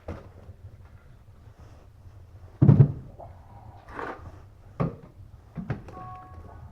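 A handful of separate knocks and thumps, the loudest about two and a half seconds in, with a faint brief steady tone near the end.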